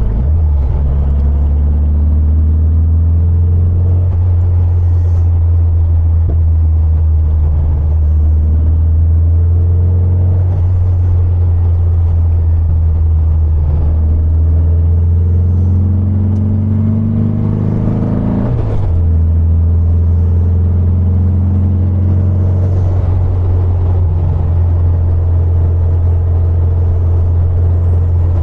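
Rebuilt 1915cc air-cooled flat-four engine of a 1974 VW 1303S Super Beetle, heard from inside the cabin on the move: a steady low drone whose pitch climbs as the car accelerates. About two-thirds of the way through, the pitch breaks off and drops sharply at a gear change, then settles.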